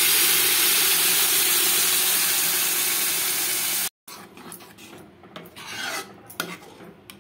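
Cooked dal sizzling loudly where it hits the hot oil of the tempering in a pan, an even hiss for about four seconds. After a sudden cut, a metal ladle stirring the dal, with soft scrapes and knocks against the pan.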